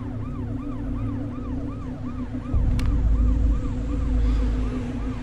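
An emergency-vehicle siren in a fast, repeated rise and fall, about two cycles a second, over a steady low drone. A deep rumbling swell of music comes in about halfway through.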